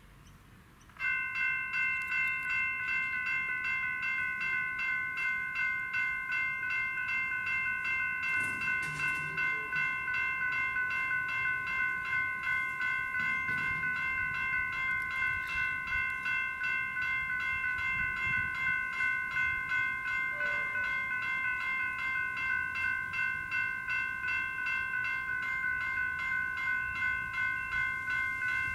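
General Signals electronic level-crossing bells start abruptly and ring on in a quick, even, pulsing ding, a chord of several steady tones. This is the sign that the crossing has activated for an approaching train.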